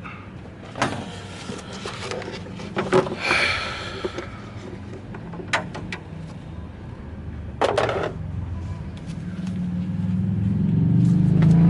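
A few sharp knocks and clanks of parts and tools being handled, then a low vehicle-like drone that swells steadily over the last few seconds.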